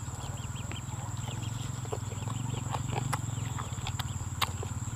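Eating sounds: chewing with a few sharp clicks, the loudest about four and a half seconds in. Under them run a steady low pulsing drone and a continuous high thin insect-like whine.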